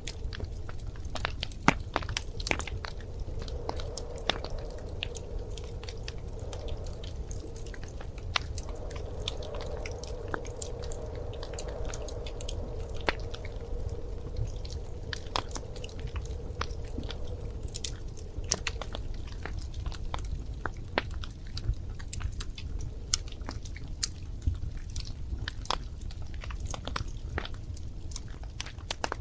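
Wood fire crackling: irregular sharp pops and snaps of burning logs over a steady low rumble of the flames, with a faint steady hiss through the middle stretch.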